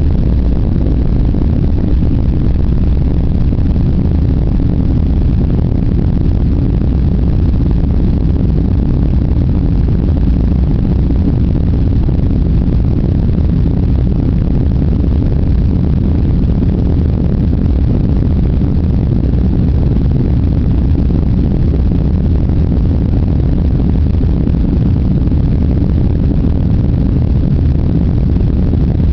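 Steady, loud low rumble of a Boeing 747's jet engines and rushing air, heard from inside the passenger cabin.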